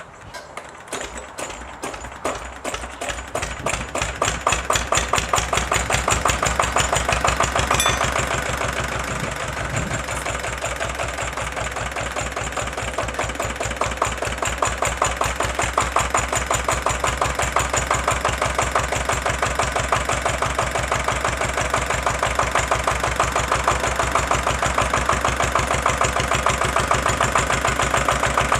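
Small vintage Petter PAZ1 single-cylinder stationary diesel engine starting: its firing beats come in and quicken over the first seven seconds or so, then it settles into a steady, even-beating run.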